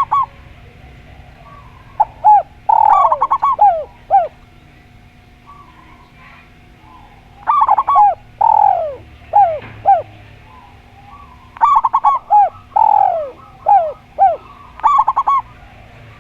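Doves cooing in three phrases of short, arching notes, the first about two seconds in, the next two about every four seconds, over a faint steady hum.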